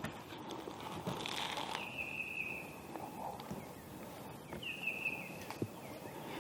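A wild bird calling twice with a high, slightly falling drawn-out note, over faint rustling in the leaves.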